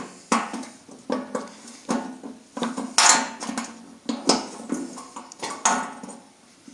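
About a dozen irregular metal knocks and clanks, each with a short ring, as a steam press's steel bottom panel and aluminium chamber are worked on to free the last damaged screw.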